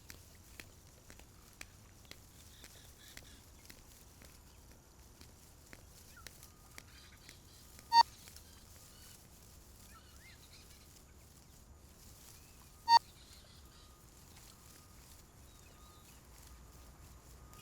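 Quiet outdoor ambience with faint scattered bird chirps, broken twice by a short, loud, high-pitched sound about five seconds apart.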